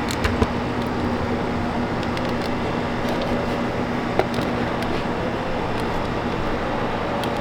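Steady machine hum with a constant low tone, broken by a few faint clicks.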